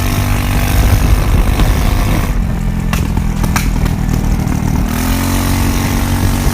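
Motorcycle engine running, mostly idling; its pitch drops about two seconds in and creeps up slightly near five seconds, with a couple of light clicks in between.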